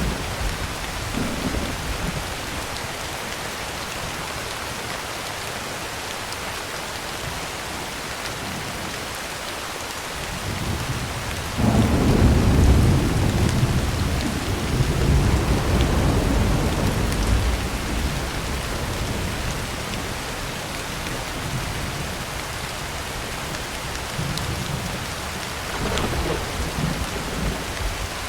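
Heavy rain falling steadily on a tin roof. A roll of thunder builds about ten seconds in, breaks in suddenly and loud a couple of seconds later, and rumbles away over several seconds. A fainter rumble of thunder comes near the end.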